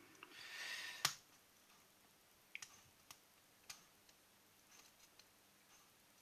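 Small clicks from handling tools and parts of a TFV8 vape tank during a coil rebuild: a brief soft rustle, then one sharper click about a second in and three faint clicks a little later.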